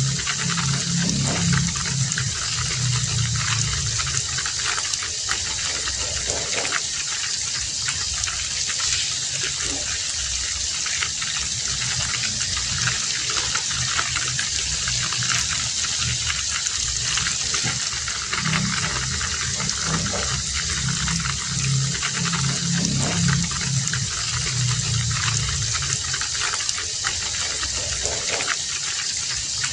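Heavy rain falling steadily. A low, pulsing sound comes and goes twice beneath it.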